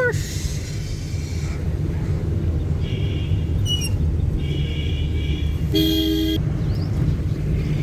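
Road vehicle horns honking several times, the loudest and longest blast about six seconds in, over a steady low rumble of engine and road noise.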